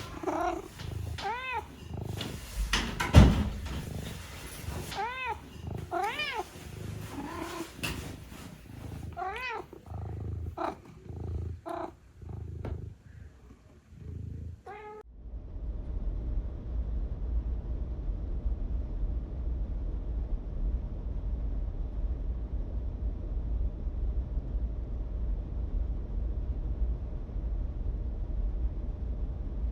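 A cat meowing repeatedly, several short rising-and-falling meows, with one loud knock about three seconds in. About halfway through it cuts off suddenly to a steady low rumble.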